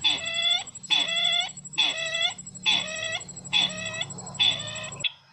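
A bird the uploader calls 'sisintar ladang' calling in a lure recording for bird trapping: six pitched, curving calls about half a second each, repeated roughly once a second, that stop abruptly near the end.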